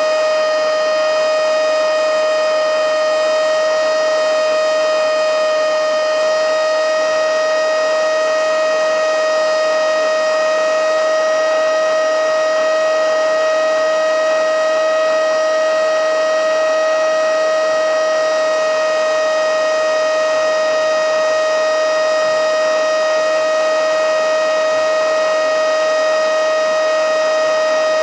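Mini handheld blow-and-suck vacuum cleaner (XCQ-5588/XCQ-508) running on its battery, still at full power: a loud, steady, high motor whine over a rush of air.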